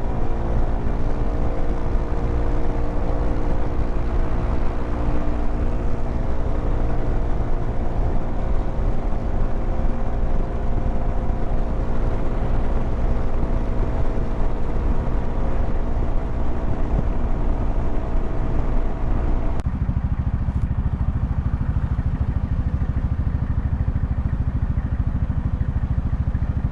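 Yamaha XMAX 300 scooter's single-cylinder engine droning at a steady cruising speed under a loud low rumble. About 20 s in, the sound changes abruptly: the steady drone drops away and mostly the low rumble is left.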